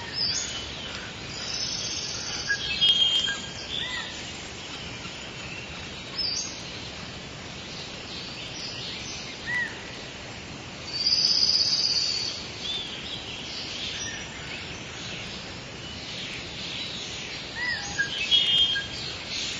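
Forest ambience: several birds chirping and calling over a steady background hiss, with a longer, louder call about eleven seconds in.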